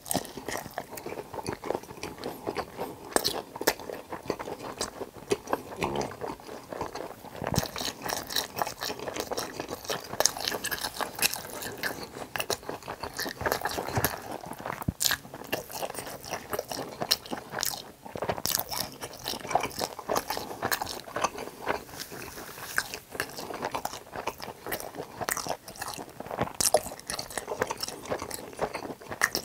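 Close-miked biting and chewing of crispy battered fried pork (tangsuyuk) topped with pizza cheese: a dense, irregular run of crisp crunches.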